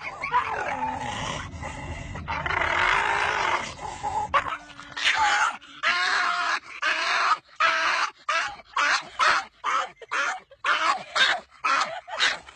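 A dog vocalizing. For the first few seconds the calls are noisy and drawn out; from about halfway through they become a rapid series of short, pitched calls, roughly two a second, each bending up and down in pitch.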